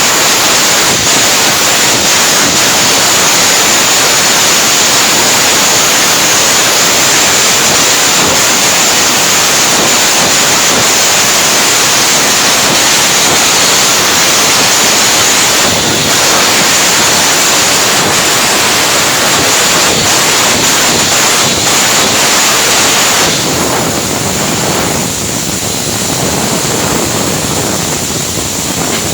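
Stick-welding arc crackling and sizzling steadily and loudly, easing a little near the end.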